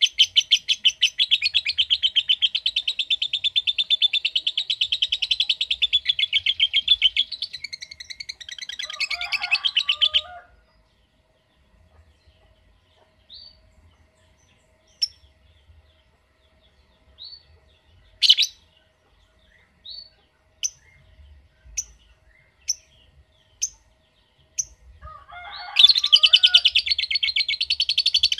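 Lovebird giving its long, rapid chattering trill (ngekek), which stops about ten seconds in. A pause with a few short single chirps follows, and then the fast trill starts up again near the end.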